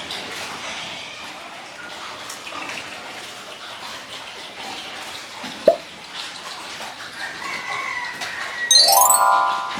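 A rooster crowing near the end, one held call over a steady background hiss, with a single sharp click about halfway through.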